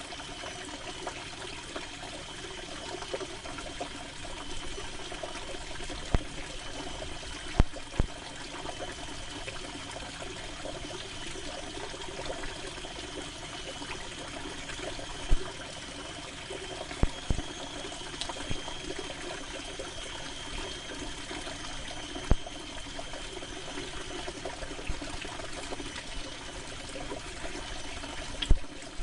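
Steady rain falling on canvas, with a few sharper, louder taps standing out from the patter.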